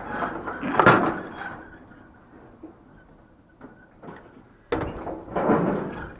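A door being forced and wrenched by hand, rattling and scraping in two bouts: one in the first second and a half, loudest about a second in, and another starting near the end.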